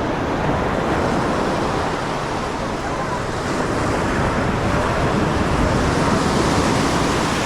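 Steady beach ambience: the even wash of surf, without breaks or sudden sounds.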